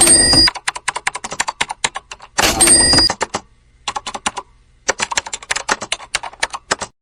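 Rapid series of sharp clicks, about ten a second, like typing. There are two louder noisy bursts with a steady ring, one at the start and one about two and a half seconds in, and a short lull in the middle.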